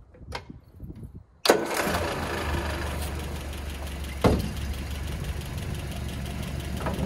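Land Rover Series 3 2.25-litre four-cylinder petrol engine, already warm and with its rocker cover off, starting almost at once about a second and a half in and settling into a steady idle. A single sharp knock sounds a few seconds after it catches.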